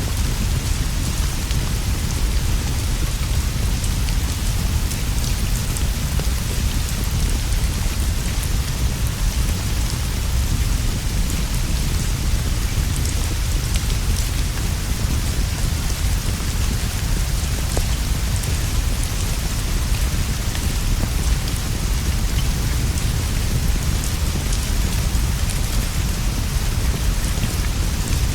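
Steady rain falling, a continuous hiss sprinkled with fine drop ticks, over a constant deep low rumble.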